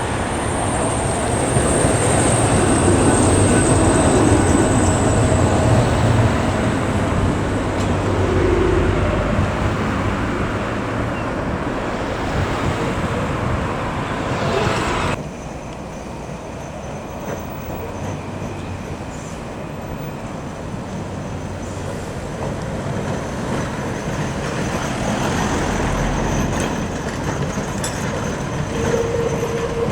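Electric heritage tram running along street track: a steady rumble of wheels and motors, with a high thin whine that sinks slightly in pitch over the first several seconds. About halfway through, the sound drops suddenly to a quieter level and then slowly builds again.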